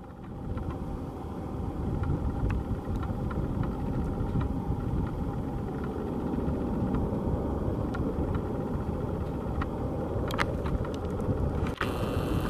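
Boeing 757-200 freighter's jet engines on landing approach: a steady rumble that swells over the first second or two and then holds, with a faint steady whine.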